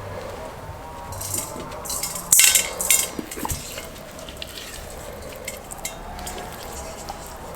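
Kitchen utensils clinking and scraping against dishes, in a few short bursts, the loudest about two and a half seconds in.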